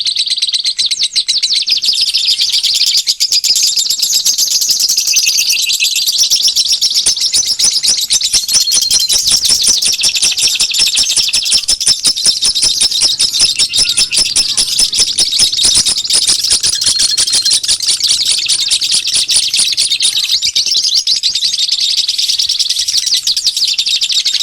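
Small birds chirping in a dense, unbroken stream of rapid high notes, played as a bird-lure call to attract wild birds.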